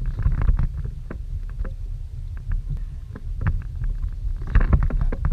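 Wind buffeting the microphone in a heavy low rumble, over a run of short sharp splashes and knocks: choppy water slapping against a kayak's hull. The knocks come thickest near the start and again near the end.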